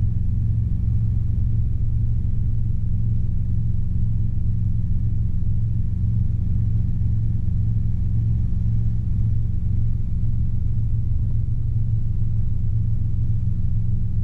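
Robinson R22 helicopter in level cruise heard from inside the cabin: a steady low drone of engine and rotors.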